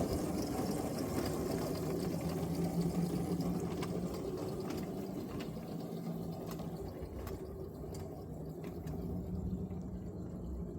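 Miniature 7-1/4-inch gauge electric locomotive running along the track, its 500-watt traction motor giving a steady low hum over wheel-on-rail rumble, with a few faint clicks.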